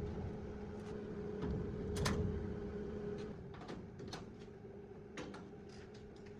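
Steady hum of a running machine with scattered light clicks and knocks of hand work on metal parts; the lower part of the hum stops about three seconds in.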